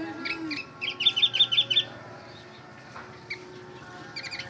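White-eye (pleci) singing in imitation of a sooty-headed bulbul (kutilang): a quick run of about seven bright chirped notes about a second in, with a few scattered short chirps before and after.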